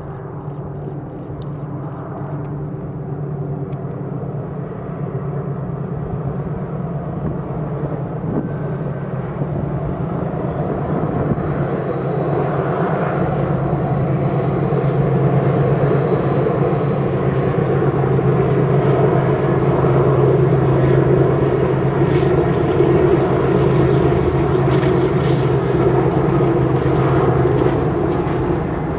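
Diesel locomotives of an approaching BNSF freight train running under power. A steady, low engine drone grows louder as the train nears.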